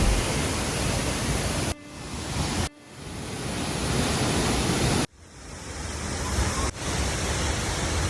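Steady roar of a waterfall's rushing water, broken by sudden dropouts about two, three and five seconds in, each swelling back up.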